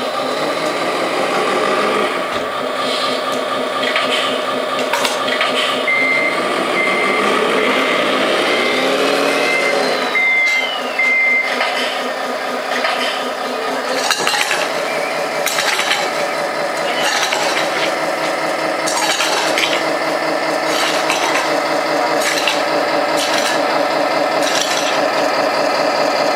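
Tamiya Scania 6x6 RC truck's sound module playing a simulated diesel engine running, with a reversing beeper sounding about twice a second for several seconds partway through. Small clicks and rattles from the model truck are mixed in.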